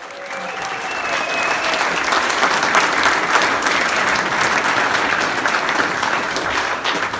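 A crowd clapping, building over the first couple of seconds and easing slightly toward the end, with a few faint voices in it.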